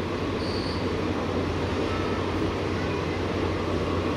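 Express train's passenger coaches rolling past on the track: a steady rumble and clatter of wheels on rails, with a brief high wheel squeal just under a second in.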